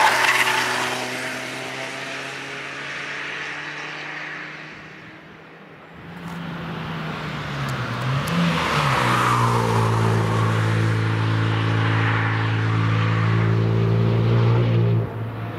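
Cars driving past on a race track: one passes at the start and fades away, then a second car's engine comes up about six seconds in and runs loud and steady at high revs before cutting off suddenly near the end.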